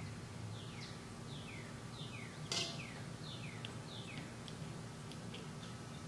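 Quiet repeated short chirps, each falling in pitch, like a small bird calling, with one sharp metallic click about two and a half seconds in from the rifle's breech block being handled and fitted.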